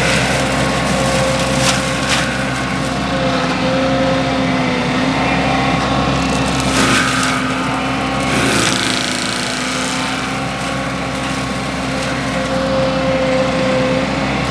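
A mini skid steer's engine running steadily under load while its forestry mulcher head spins, with a few sharp cracks and snaps of wood being chewed up.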